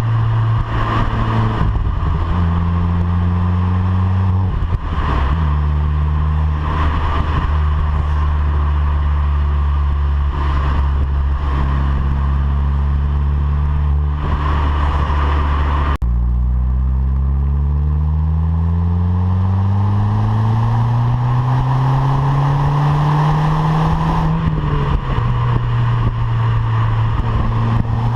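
VW Polo 9N3 GTI's 1.8-litre turbocharged four-cylinder, heard through its stock exhaust. It runs at fairly steady revs for the first half, with small shifts in pitch. After a sudden break about halfway, the revs climb smoothly for several seconds, drop sharply, then settle steady again.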